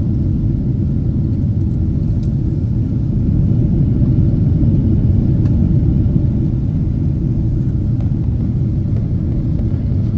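Steady low rumble inside a moving vehicle, swelling slightly for a few seconds midway.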